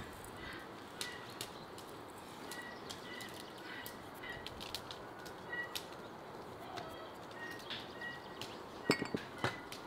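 Songbird calling in the background, short even chirps repeated about twice a second, over light outdoor ambience. A few sharp knocks come near the end.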